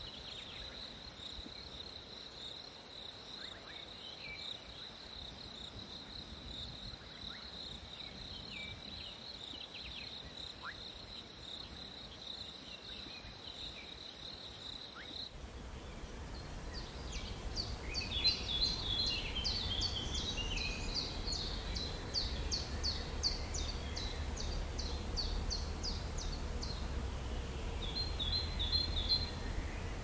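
Jungle ambience: a steady high insect trill over a soft hiss for the first half. About halfway through it gives way to birds chirping in quick repeated series over a low rumble.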